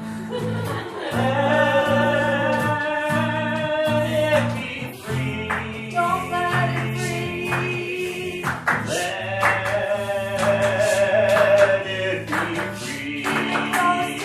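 Live band music with several voices singing long held notes over a steady low accompaniment.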